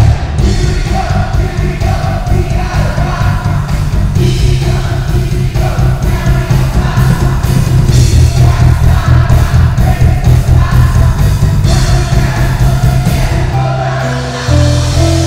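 Live band music with an electric bass playing loud, upfront lines under group singing.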